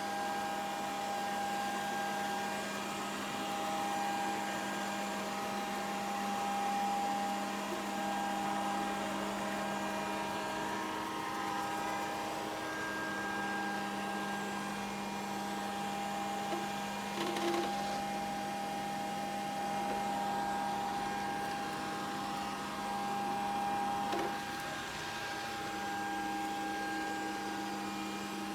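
Grundig VCR 2131 robot vacuum cleaner running: a steady motor hum and whine over a hiss, with two brief knocks, one about two-thirds of the way in and one near the end.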